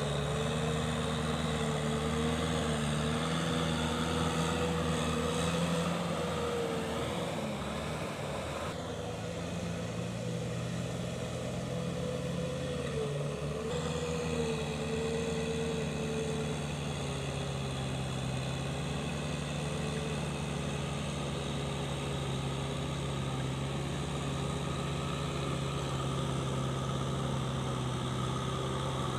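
Kubota M6040SU tractor's four-cylinder diesel engine running steadily, its pitch wavering slightly and settling a little lower about a third of the way in.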